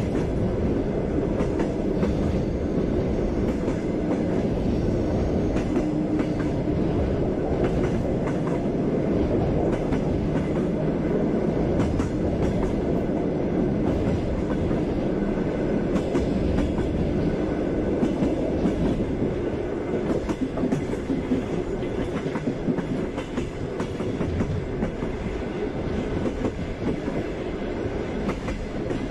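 Passenger train running at speed, its wheels clattering over the rail joints with a steady rumble.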